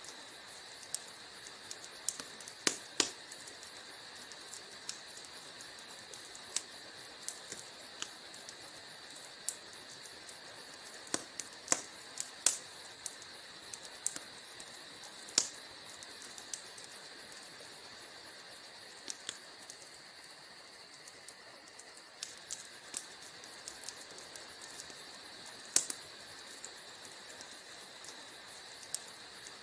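Wood fire crackling in a fireplace: sharp, irregular pops and snaps, some much louder than others, over a steady soft hiss.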